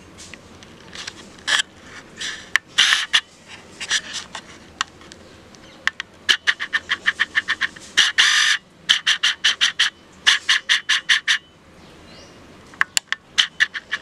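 Chirping calls, like small birds: several runs of rapid short chirps, one of them about eight a second, with a few longer calls between.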